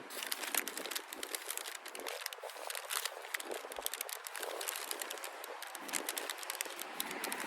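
Crinkling and rustling of a paper takeaway bag being handled, a dense run of small sharp crackles.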